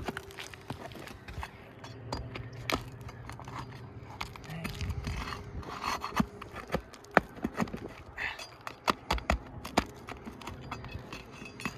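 Irregular sharp clicks, taps and scrapes of a metal tool working under asphalt roof shingles, prying up roofing nails, over a steady low hum.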